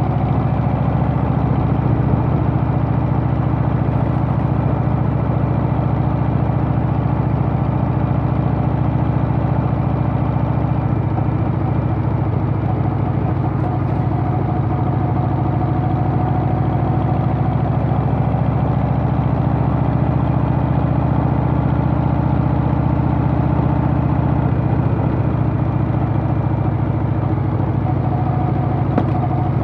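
Harley-Davidson Softail's Milwaukee-Eight V-twin engine running steadily at an even pitch, with no revving or gear changes.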